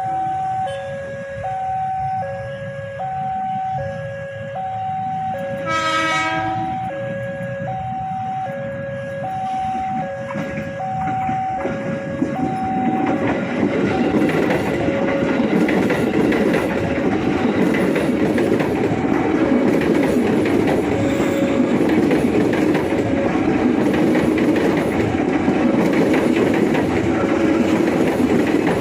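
A train gives a short horn blast about six seconds in, then rumbles and clatters in over the rails, growing louder from about twelve seconds on. Throughout, an electronic warning signal alternates between a high and a low tone, about one pair a second.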